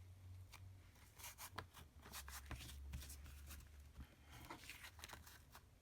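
Faint rustling, scraping and light taps of paper and card being handled, over a low room hum.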